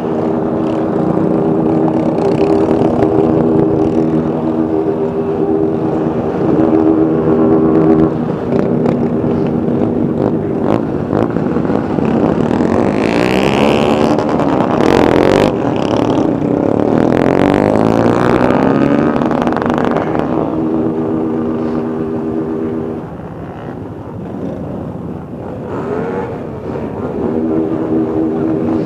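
A large group of motorcycles running. A steady engine drone holds for long stretches, and in the middle several bikes rev and pass, their pitches rising and falling.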